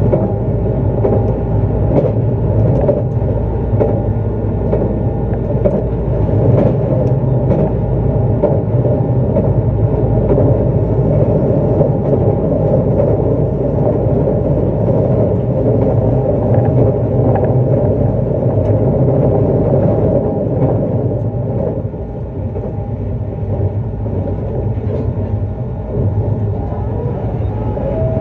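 Running noise of a JR East E259 series Narita Express electric train at speed: a steady rumble of wheels and traction motors with scattered sharp clicks. It eases off briefly a little past two-thirds of the way through.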